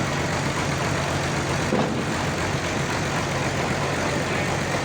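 Sawmill's engine running steadily, a constant low hum under dense mechanical noise.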